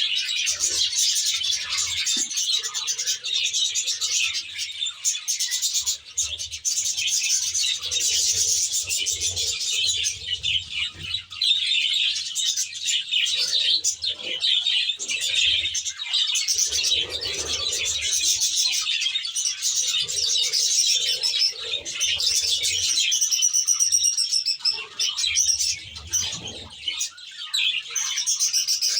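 A flock of budgerigars chattering and warbling continuously in a dense, unbroken twitter.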